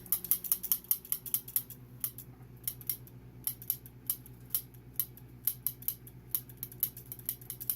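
Kitchen tongs clacking open and shut over and over, several sharp clicks a second, with a short lull partway through, over a faint low steady hum.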